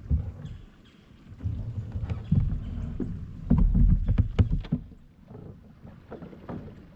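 Knocks and water sloshing around a small boat, with low rumbling on the microphone that is loudest in the middle and several sharp knocks during it.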